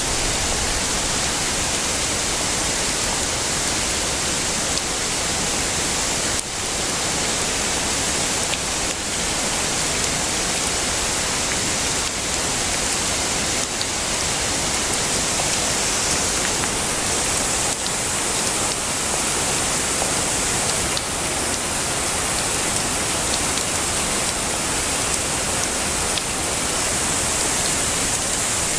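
Heavy rain falling steadily as a dense, even hiss, with a few sharper drop ticks now and then.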